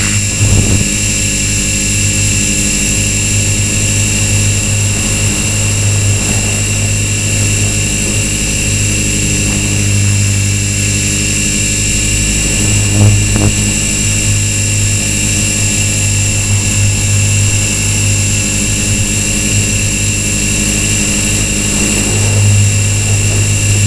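Walkera V450D01 electric RC helicopter in flight: a steady rotor hum with a high motor whine, swelling briefly about halfway and again near the end.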